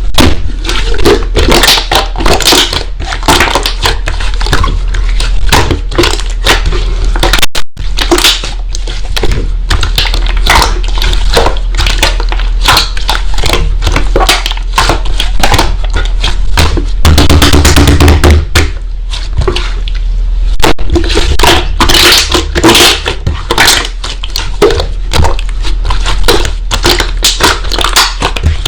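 Slime being squeezed, pressed and poked by hand: a dense, continuous run of crackling, clicking and popping, with crunchy squelches throughout.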